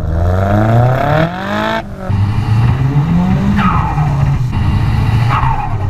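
Modified Nissan S14A's turbocharged engine accelerating hard: the revs climb steadily, break off for a gear change just under two seconds in, and climb again. Twice afterwards a high whistle falls away in pitch.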